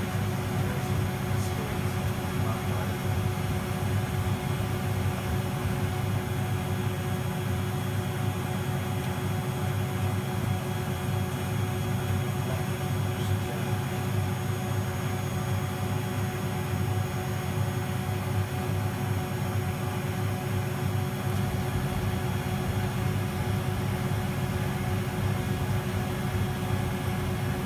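Hoover Keymatic De Luxe 3243H washing machine running through its cool-down and drain stage: a steady, even machine hum with a faint constant whine above it.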